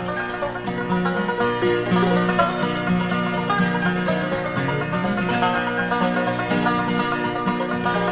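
Bluegrass string band playing an instrumental passage with no singing: banjo, guitar, mandolin and bass.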